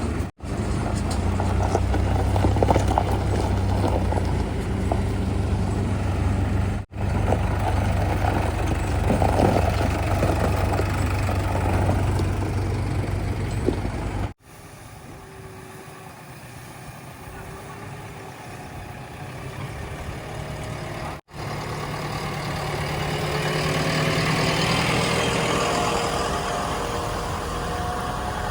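Heavy diesel engines running, heard as several short clips cut together. The first half holds a loud, steady low engine hum with clatter. The second half is quieter, then builds again with a steadier, higher engine note.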